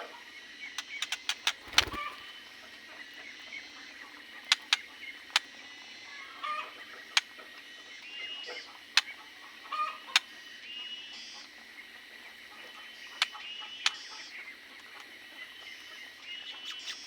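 Aviary birds giving short calls, with sharp clicks and taps scattered throughout and a faint steady high tone underneath.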